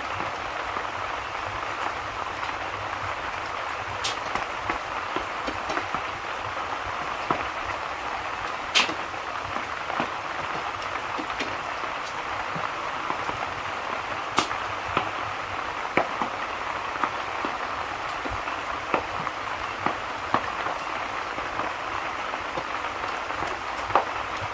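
Steady rain hiss with a wood fire crackling over it: scattered sharp pops, a few of them louder, at irregular intervals.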